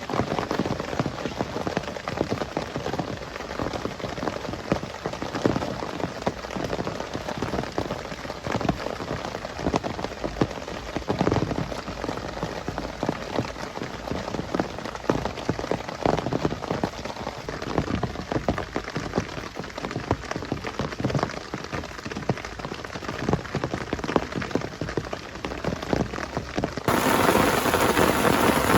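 Heavy rain falling, with a dense patter of individual drops. Near the end the sound changes abruptly to a louder, brighter downpour.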